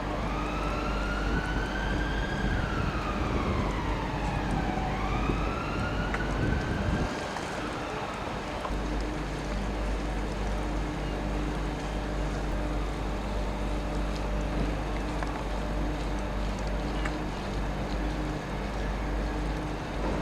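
Emergency vehicle siren wailing, its pitch rising and falling slowly for about the first seven seconds, over a steady low hum.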